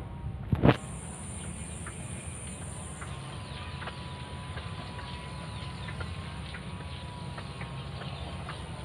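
A sharp knock about half a second in, then outdoor ambience: a steady high-pitched insect drone with scattered faint ticks.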